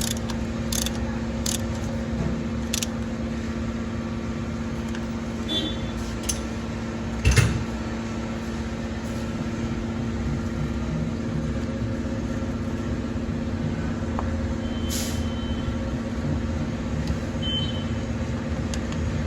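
Maruti Suzuki Ertiga's petrol engine idling steadily with an even hum, with a few light clicks early on and a single louder knock about seven seconds in.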